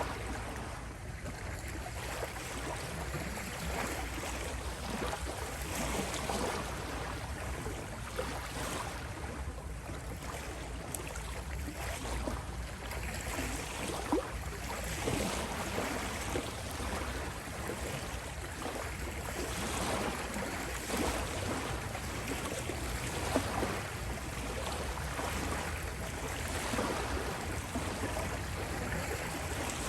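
Gentle ocean waves washing onto a beach, a steady rush of surf that swells and eases a little without stopping.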